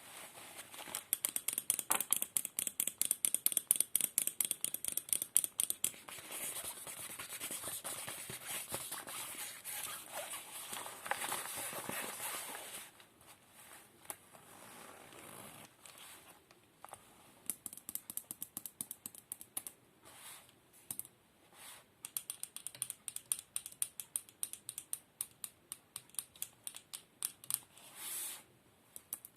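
Close-miked ASMR trigger sounds. It opens with fast, crisp tapping, turns to a steady scratching rustle for several seconds, then goes on with quieter, sparser taps and clicks.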